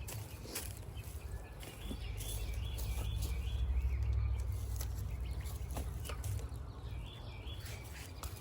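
A bird sings short runs of quick repeated chirps, twice, over a low wind rumble on the microphone that swells in the middle. Scattered light clicks and rustles come from hands working in the garden bed.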